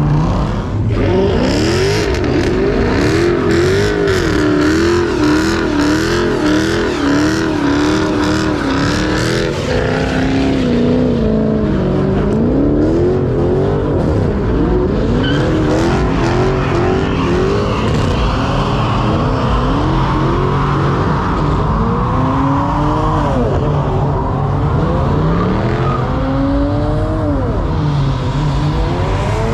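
Car engines revving hard over and over, the pitch climbing and dropping about once a second, then in slower sweeps with more than one engine heard at once later on.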